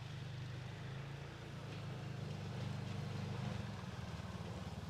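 An engine running at low speed, slowly growing louder.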